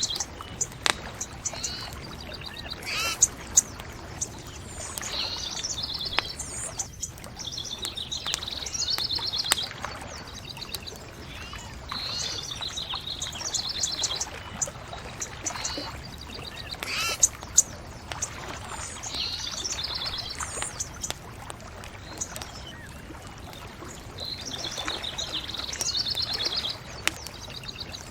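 Songbirds singing in short, repeated trilled phrases every few seconds over a steady low rush, with a few sharp crackles and pops from a bonfire.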